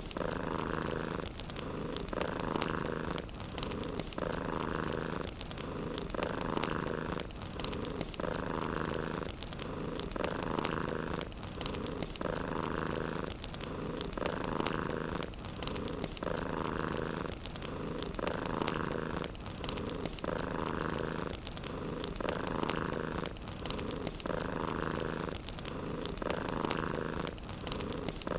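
A cat purring steadily, swelling and easing in a slow even rhythm of about one breath every two seconds, with a fireplace crackling underneath in small scattered pops.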